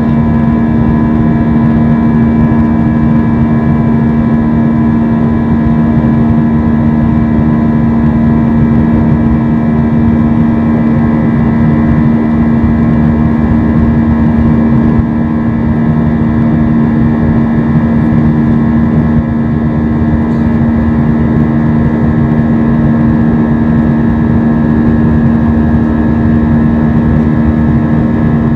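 Steady cabin drone of an Airbus A320-232 in flight, heard from inside the cabin: its IAE V2500 turbofans and airflow make an even roar with several steady hum tones.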